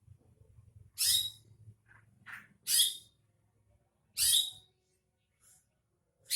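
Green leafbird (cucak ijo) singing: five short, loud, high-pitched calls, about one to two seconds apart, with a weaker one between the second and third. It is a lure recording meant to prompt a caged cucak ijo to sing.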